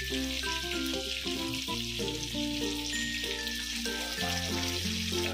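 Pomfret pieces sizzling steadily as they shallow-fry in hot oil in a pan, the first batch nearly done. Background music with held bass notes and a light melody plays over it.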